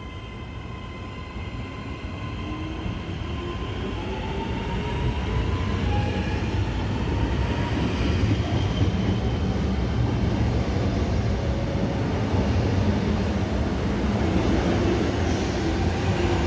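Train moving along the track, growing louder over the first five seconds and then holding steady, with a faint high whine that glides slightly in pitch in the first few seconds.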